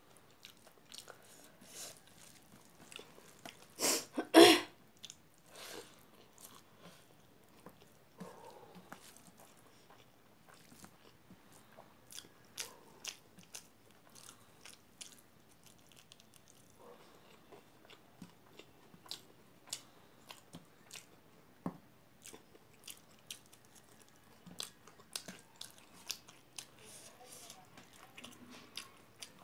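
Close-up chewing and lip-smacking of someone eating rice with fermented soybean curry by hand, with many short wet smacks and clicks. A louder double crunch about four seconds in.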